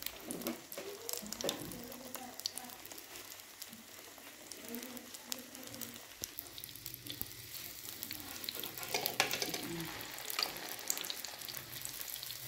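Egg-coated chicken and lentil shami kebabs sizzling in shallow oil in a flat frying pan, a steady hiss full of small crackles and pops.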